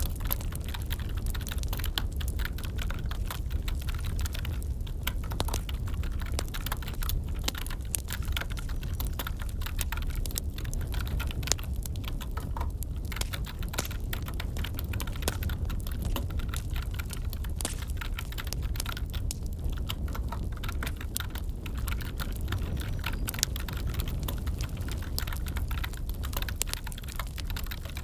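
Computer keyboard typing layered over a crackling wood fire: a steady patter of small clicks and pops over a low rumble.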